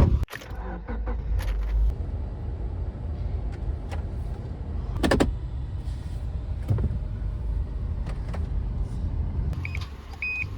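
Car driving, heard from inside the cabin as a steady low road and engine rumble. A sharp knock comes right at the start, a few faint clicks follow, and a short high beep sounds near the end.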